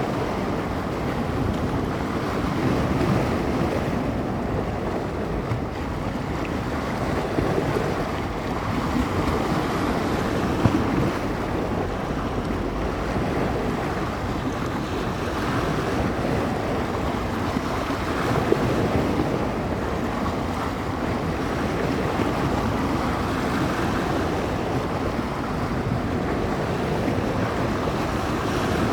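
Small bay waves washing and breaking along the shore in a continuous, slowly swelling wash, mixed with wind gusting and buffeting the microphone.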